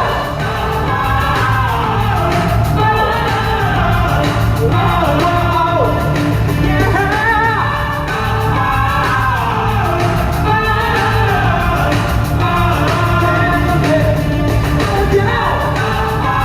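A singer performing a song live over a steady, bass-heavy backing track, recorded on a cell phone.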